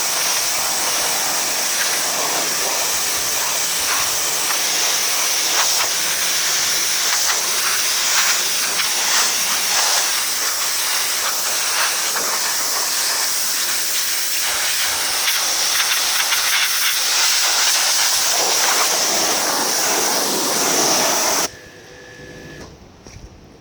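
2200 psi electric pressure washer spraying, a steady high-pressure water jet hissing with the spatter of spray on a surface. It cuts off suddenly near the end.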